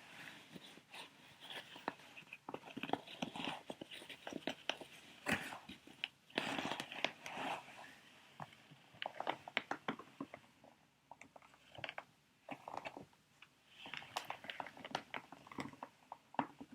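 Plastic sheet mask packets being handled and crinkled, an irregular crackling with sharp clicks and taps that comes in bursts with short lulls between.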